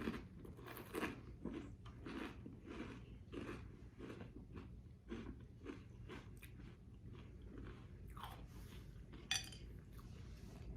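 Close-up chewing of crunchy Reese's Puffs cereal in milk: a steady run of soft crunches, with one sharper click about nine seconds in.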